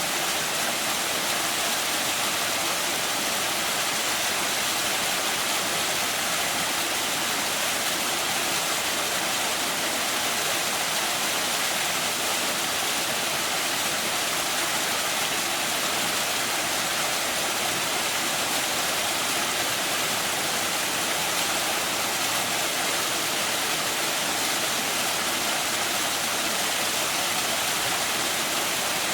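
A small mountain waterfall splashing steadily into its plunge pool, an even rushing hiss that never changes.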